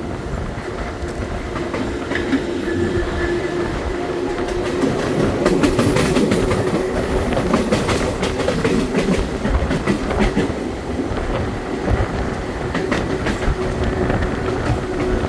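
Série 900 electric multiple-unit metro train running between stations: steady rumble of wheels on rails with a steady hum and repeated clicks over the rail joints, a little louder midway through.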